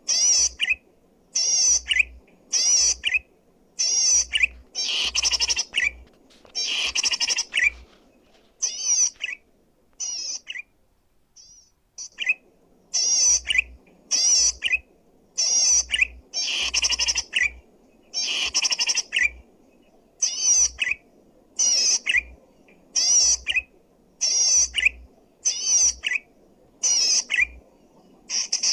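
Zitting cisticola (cici padi) singing loudly in short, buzzy chattering bursts, about one a second, with a pause of a second or so about ten seconds in.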